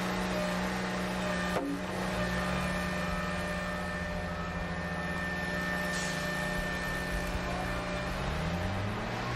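Small motor humming steadily, with a short click about a second and a half in and the pitch rising near the end.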